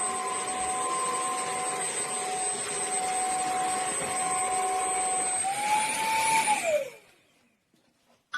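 Motor of a BISSELL CrossWave OmniForce cordless wet-dry floor vacuum running with a steady whine. About five seconds in, its pitch rises briefly, then it is switched off and winds down, falling in pitch until it stops.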